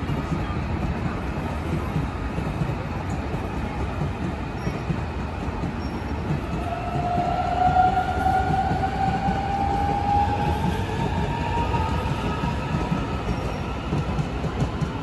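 A train running with a steady rumble. About six seconds in, a high whine starts and rises slightly in pitch for several seconds.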